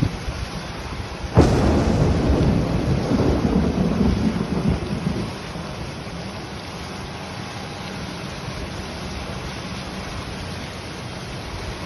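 Heavy rain falling steadily, broken about a second and a half in by a sudden close thunderclap. The thunder rumbles loudly for about four seconds, then fades back under the rain.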